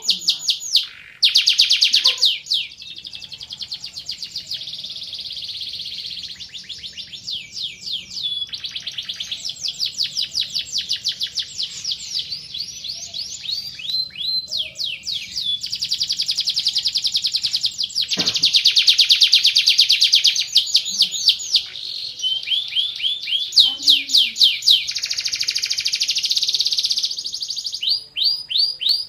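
A Van Hesterling-line domestic canary singing a long, unbroken song. Runs of rapid repeated sweeping notes alternate with dense, sustained trilling rolls.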